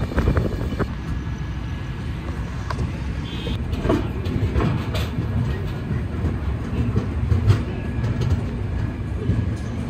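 Passenger express train running on the rails: a steady low rumble of the moving coach, with scattered sharp clicks and knocks from the wheels and couplings, the loudest knock about seven and a half seconds in.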